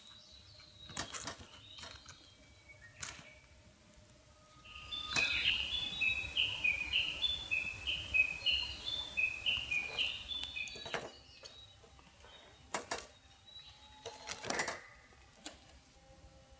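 A bird singing a quick run of short, repeated high notes for about five seconds, starting about five seconds in. Scattered sharp clicks or knocks come before and after it.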